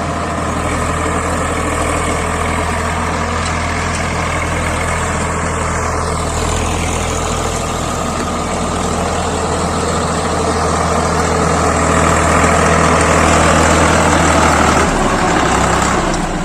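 Swaraj 855 FE tractor's diesel engine running steadily. It grows louder over the last few seconds, and its low note changes shortly before the end.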